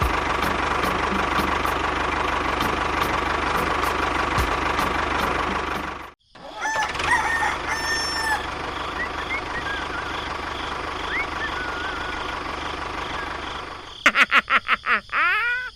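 A small engine or motor runs steadily with a faint regular ticking, then cuts off abruptly about six seconds in. Chickens follow, clucking and calling. Near the end comes a rapid run of squawks that leads into a rooster crowing.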